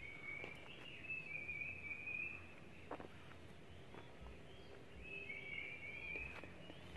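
A bird singing in two warbling phrases of about two seconds each, the first at the start and the second about five seconds in, with a few scattered clicks and a faint outdoor background.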